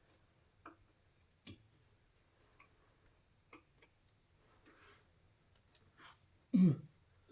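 Scattered light clicks and taps of hand tools and metal parts being handled while working on an excavator engine, with one short, louder sound near the end.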